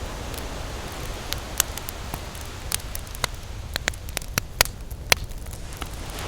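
Wood campfire crackling with many sharp pops, a few louder ones about four to five seconds in, over the steady low rush of ocean surf.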